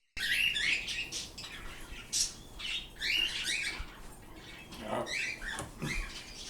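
Pet birds chirping and calling, many short rising and falling chirps overlapping one another.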